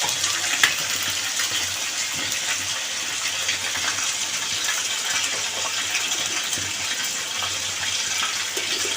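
Chicken pieces frying in hot oil, a steady sizzling hiss with occasional faint crackles.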